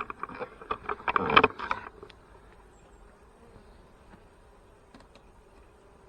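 Close handling noise, a flurry of knocks and scraping, for about the first two seconds, then honey bees buzzing as a faint, steady hum.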